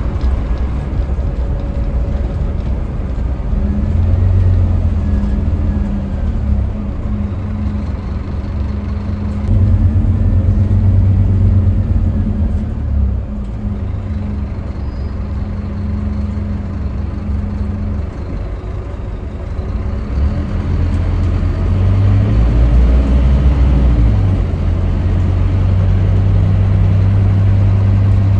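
Scania K310UB city bus's diesel engine running, working harder about ten seconds in and again after about twenty-two seconds, and easing off in between. Faint whines rise and fall above the engine.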